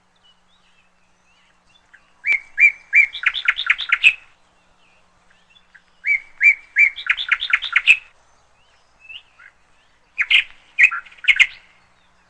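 Canary chirping in three short bursts, each a few separate chirps that speed up into a quick run of notes.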